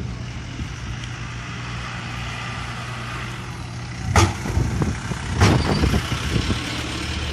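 A car running with a steady low hum as it drives off. Two sharp knocks a little over a second apart past the middle.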